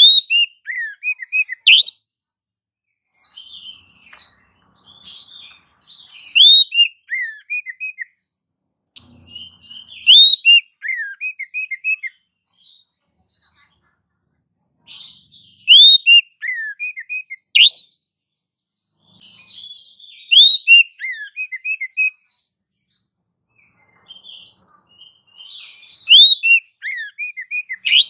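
Bird-lure recording of small songbirds chirping: a phrase of a sharp upswept note followed by a quick run of four or five short falling notes, repeating about every five seconds, with softer twittering between.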